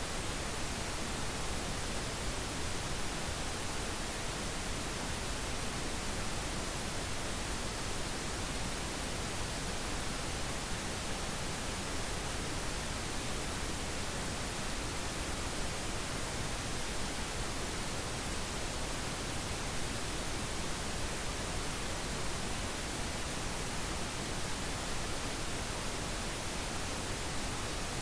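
Steady pink noise: an even, unchanging hiss spread across the whole range, with no events or variation.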